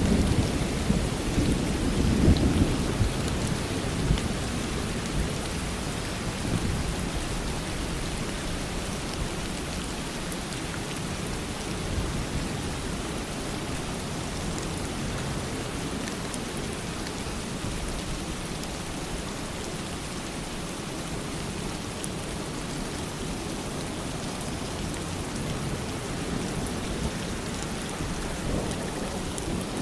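Steady heavy rain falling, with a low rumble of thunder dying away over the first few seconds.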